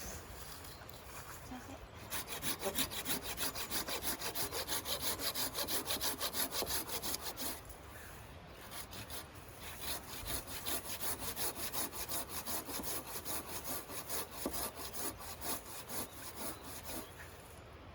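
Hand saw cutting through wood in quick, rhythmic strokes of about three or four a second, pausing briefly about eight seconds in before the sawing resumes.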